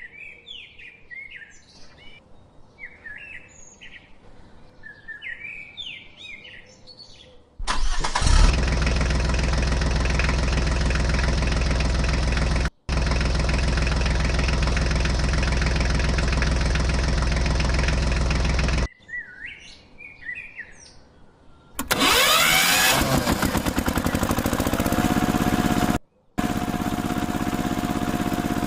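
Birds chirping for the first several seconds, then a machine's engine running steadily and loudly in abruptly cut segments. Birds are heard again briefly before the engine returns with rising and falling revs and settles into a steady drone.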